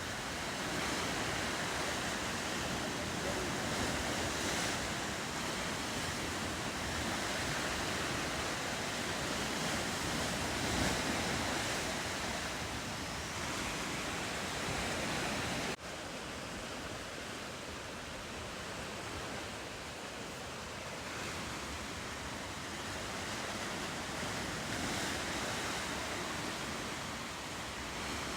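Ocean surf and waves washing on the coast, a steady rushing noise mixed with wind on the microphone. It breaks off for an instant about halfway through and goes on a little quieter.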